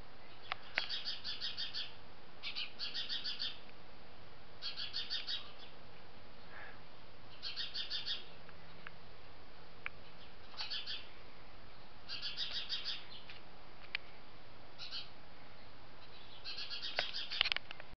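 Small birds chirping in quick bursts of rapid chirps, each burst about a second long, repeated every couple of seconds. A few sharp clicks fall between them.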